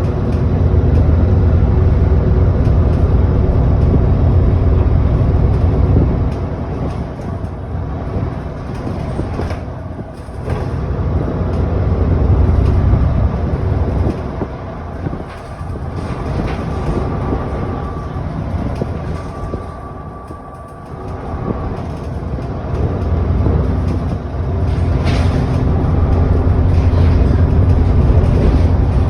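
Alexander Dennis Enviro400 double-decker bus under way, heard from inside: the engine's low drone falls away and builds again several times as the bus slows, changes gear and pulls away. A thin steady whine sounds over it for a few seconds around the middle.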